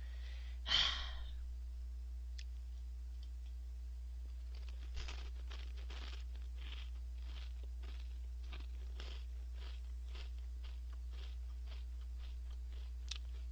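Close-up chewing of crunchy Gorae-bap whale-shaped crackers, about three crunches a second, starting a little over four seconds in. A steady low electrical hum runs underneath.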